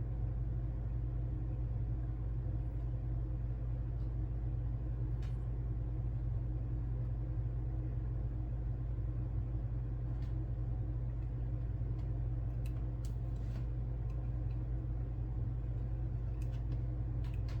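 Steady low hum of background noise, with a few faint light clicks here and there.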